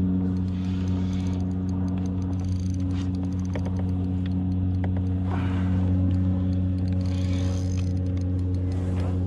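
A steady low motor hum at an even pitch, with scattered clicks and rustles of handling over it.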